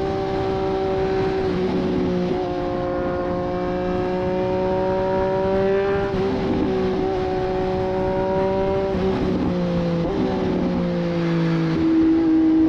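2024 Triumph Street Triple 765 RS inline-three engine through a Racefit Growler full exhaust system, heard while riding. The engine note climbs slowly and drops in pitch in steps several times.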